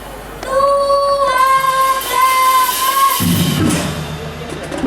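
Marching drum band music: a melody instrument plays a short phrase of a few long held notes, then a low rumble of percussion comes in about three seconds in.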